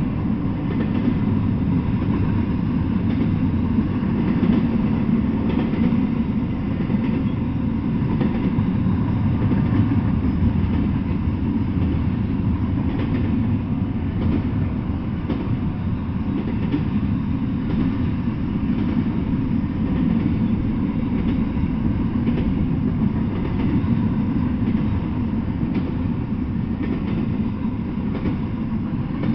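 Double-stack intermodal freight train rolling past: a steady low rumble of steel wheels on rail, with faint clicks running through it.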